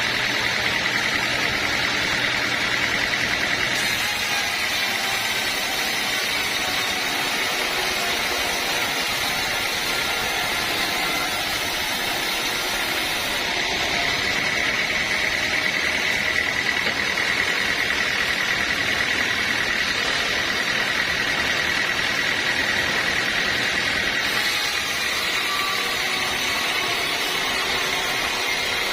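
Bandsaw sawmill running steadily, with a high whine that strengthens for stretches of several seconds.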